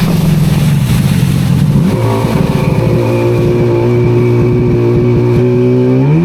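A motor vehicle engine running at a steady pitch. It drops in pitch at the start and again about two seconds in, then rises near the end, over a rushing haze.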